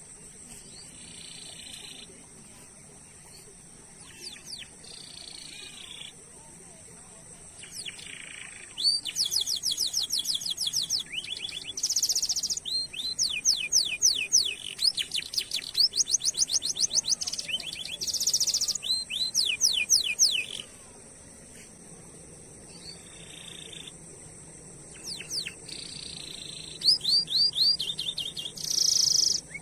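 Domestic canary singing: soft buzzy phrases at first, then from about nine seconds in loud rapid trills of quick down-swept notes mixed with short buzzy rolls. It goes softer for a few seconds, then trills loudly again near the end, over a steady high-pitched tone.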